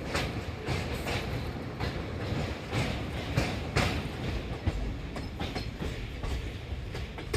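Passenger train running along the track: a steady low rumble with wheels clacking irregularly over rail joints.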